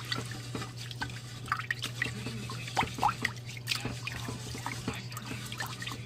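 Water dripping and splashing in irregular small drops, each a short rising blip, over a steady low hum.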